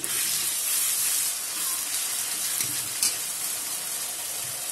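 Onions and spice paste sizzling in hot mustard oil in a metal kadai just after water has gone in, stirred with a metal spatula. The sizzle starts loud and eases a little, with one sharp tick about three seconds in.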